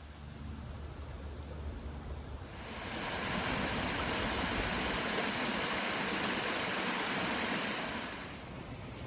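Babbling brook: water running over stones, a steady rushing hiss that comes in sharply about two and a half seconds in and drops back to a quieter trickle near the end.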